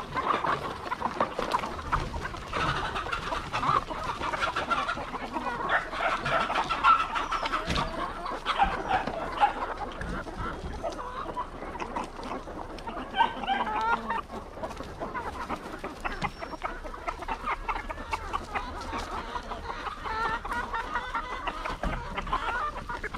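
A flock of chickens clucking continuously, many overlapping short calls, busier in the first half.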